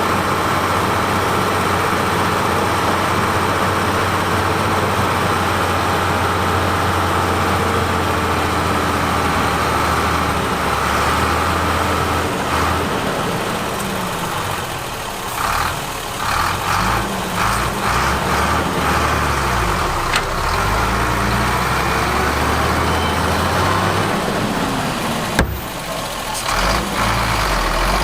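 Heavy construction machine's diesel engine, running steadily at first, then rising and falling in speed several times from about halfway through. A single sharp click comes near the end.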